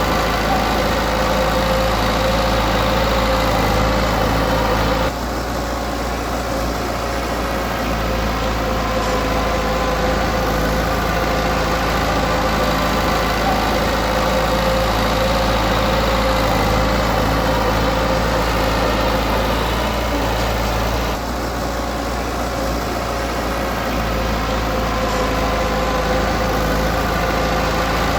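Diesel engine of a Komatsu D20P bulldozer running steadily under work, its level dipping briefly about five seconds in and again about twenty-one seconds in as the load or throttle eases.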